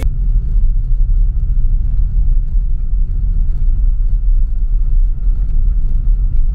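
Loud low rumble, steady with small ups and downs in level.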